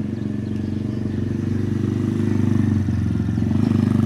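Bosuer PH5B 125cc pit bike's single-cylinder four-stroke engine running steadily with a rapid, even firing beat, getting a little louder in the second half.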